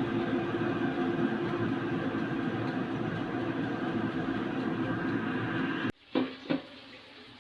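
Air fryer running, its fan giving a steady whirring hum that cuts off abruptly about six seconds in, followed by two quick knocks.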